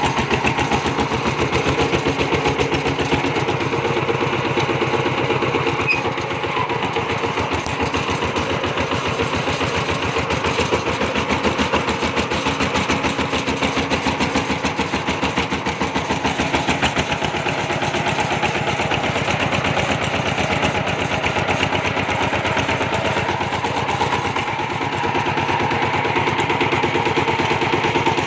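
Kubota RT140 single-cylinder diesel engine of a two-wheel tractor running steadily, with a fast, even beat of firing strokes.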